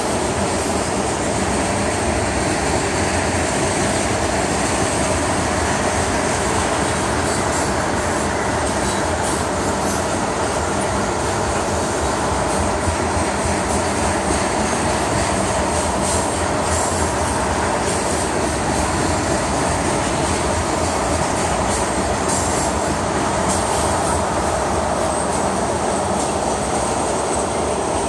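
Freight train of tank cars rolling past close by: a steady rumble and rattle of steel wheels on rail, with a thin, steady high squeal above it.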